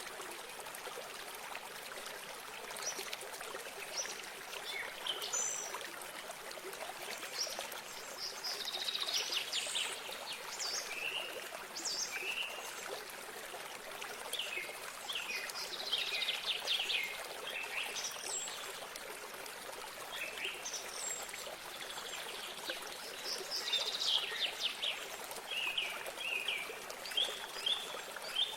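Steady trickling of running water, with several small songbirds chirping and trilling on and off throughout.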